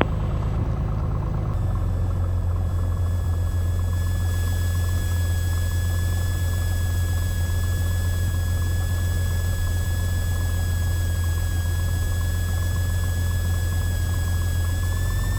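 Cessna 182's piston engine and propeller running with a steady drone as the plane lines up on the runway, the note shifting about a second and a half in and starting to rise in pitch near the end as power comes up for takeoff.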